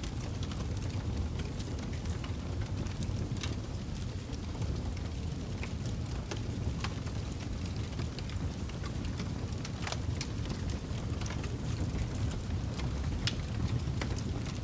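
Campfire burning: a steady low rumble of flames with many irregular crackles and pops from the burning wood.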